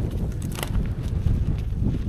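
Wind buffeting the microphone, a low rumbling that rises and falls, with a short sharp click or rustle about half a second in.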